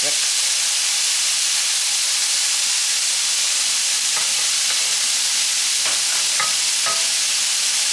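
Garlic frying in oil in a pan on the stove: a steady sizzle as it browns. A few light clicks near the end.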